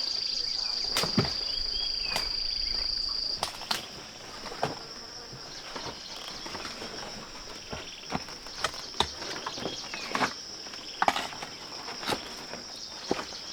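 Insects droning in a steady high-pitched buzz, loud at first and cutting down a few seconds in to a fainter insect chorus. Scattered sharp clicks and snaps run through it, as of vegetation being handled or stepped on.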